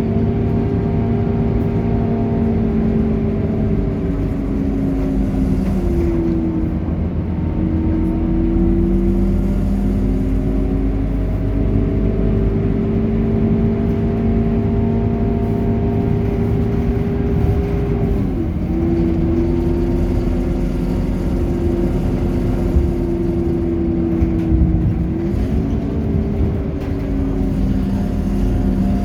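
Scania K230UB city bus's five-cylinder diesel engine running under way, a loud, steady drone whose pitch drops and then settles several times as the bus changes speed or gear.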